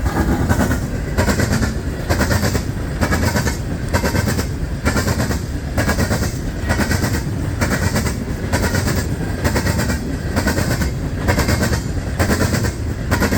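A CSX coal train's cars roll past with a steady low rumble. Their wheels clack in an even rhythm of about one to two clicks a second.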